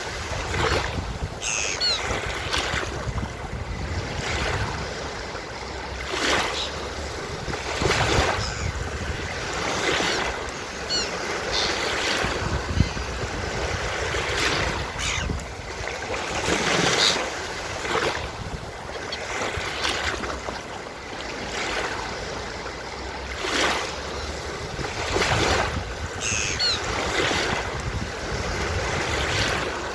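Ocean surf breaking and washing on a beach, the waves surging every couple of seconds, with seagulls calling a few times over it. There is one brief sharp knock about thirteen seconds in.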